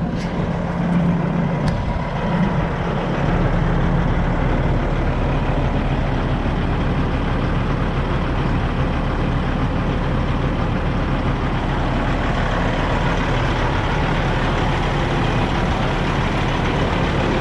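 Heavy vehicle engine running steadily. About three seconds in its note deepens and it gets a little louder.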